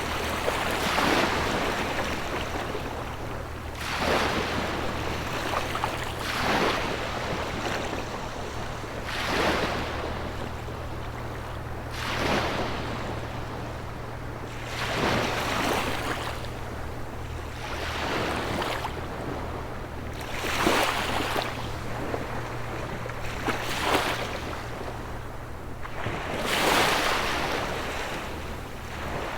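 Small sea waves breaking and washing onto the shore, one surge every two to three seconds. A low steady hum runs underneath and stops near the end.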